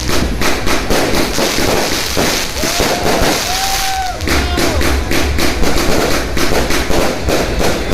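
Fireworks and firecrackers going off in a dense, continuous crackle of rapid pops, with a few brief rising-and-falling whistles near the middle and a low rumble from about halfway.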